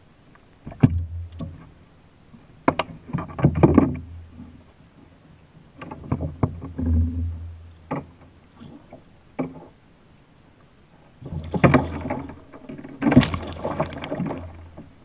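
Knocks, clunks and rattling of gear handled against a plastic fishing kayak's hull, in several separate bursts with short quiet gaps between them.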